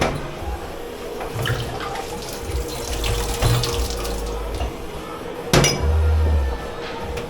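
Tap water running into a dish-pit sink as dishes are rinsed, with a few clinks and knocks of crockery; the loudest is a sharp knock about five and a half seconds in, followed by a deep thud.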